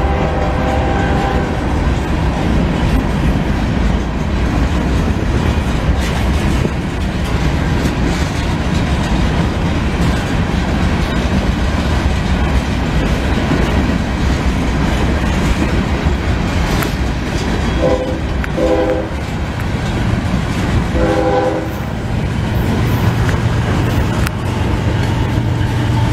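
Coal hopper cars of a freight train rolling past with a steady rumble and wheel clatter. A diesel locomotive's horn gives two short blasts about 18 seconds in and another about three seconds later, from the oncoming Norfolk Southern train, and a deeper engine drone builds as that locomotive draws near in the last few seconds.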